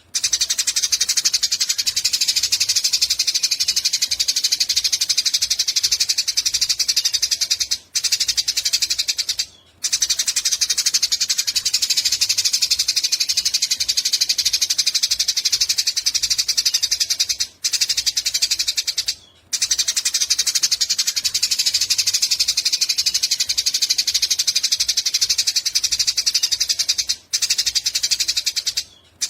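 Eurasian tree sparrow giving a long, rapid chattering call: a fast, high, buzzy rattle that runs on in long stretches, broken by a few brief gaps.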